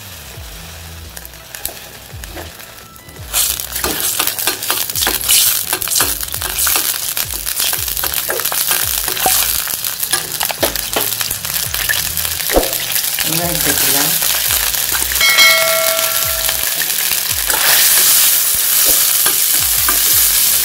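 Garlic cloves and ginger pieces sizzling in hot oil in a stainless steel pan, the sizzle turning loud and crackly about three seconds in. A brief ringing tone sounds about three-quarters through. Near the end, sliced onions are stirred in the oil with a spoon, at the loudest sizzle.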